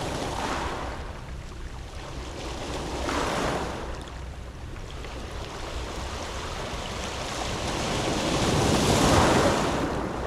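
Sea waves washing onto a pebble beach. They surge three times: a small one just after the start, another about three seconds in, and the biggest and loudest near the end.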